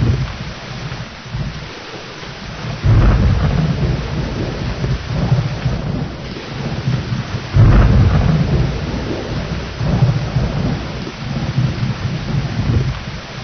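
Thunderstorm: steady heavy rain with rolling thunder. Two loud rumbles of thunder start suddenly about three seconds in and again about seven and a half seconds in, with lesser rumbles between.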